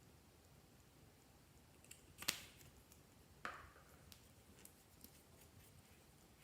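Near quiet broken by a few sharp clicks and taps: a loud one about two seconds in, another about a second later with a brief ringing tail, and a few faint ticks after.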